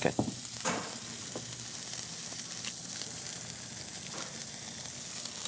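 Bacon-wrapped ground-beef patty frying in a pan, with a steady sizzle as the bacon browns. A few light knocks come in the first second.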